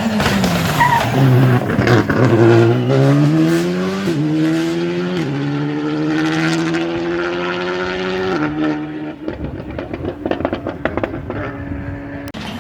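Rally car braking into a corner with the engine note dropping, then accelerating hard away through the gears, with two quick upshifts, and its note fading as it pulls away. A run of sharp cracks and pops follows near the end.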